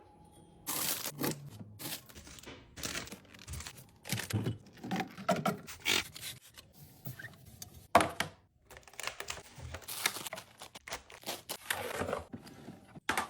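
Food containers and packaging handled while restocking a fridge: an irregular string of clicks, knocks and thunks, with crinkling, tearing and scraping between them.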